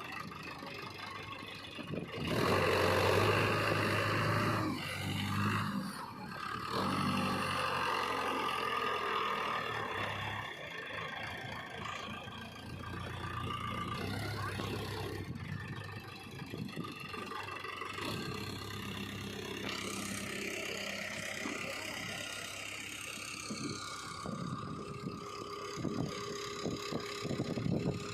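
Heavy diesel machinery running: a backhoe loader working alongside a tractor, its engine revving up sharply about two seconds in, then running on at a lower, steadier level.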